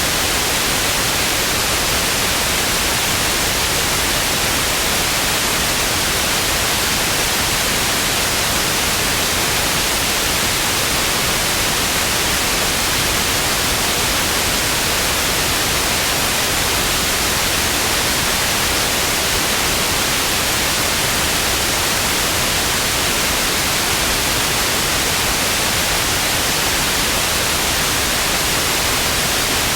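Television static: a steady, unbroken hiss of white noise, strongest in the upper range.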